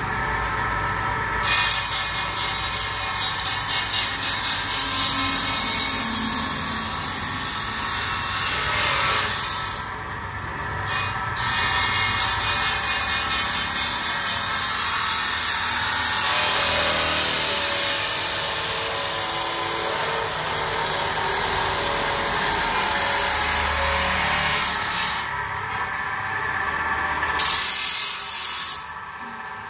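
Compressed-air paint spray gun spraying paint in long hissing passes, stopping briefly about ten seconds in and twice more near the end.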